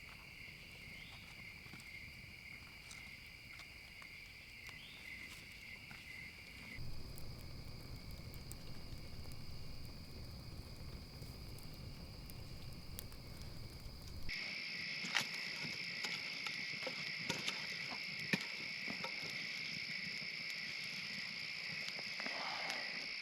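Night insect chorus of crickets, a steady, continuous high-pitched chirring that grows louder about two-thirds of the way in, with scattered sharp clicks and knocks over it.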